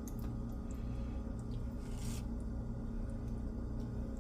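A utensil scraping and pressing thick pot pie filling level in a pie crust: faint rubbing and small clicks, with one brief scrape about two seconds in, over a steady low hum.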